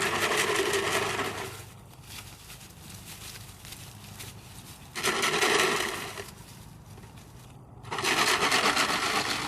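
Three bursts of rattling, crunching noise, each about a second and a half long, with quieter gaps between.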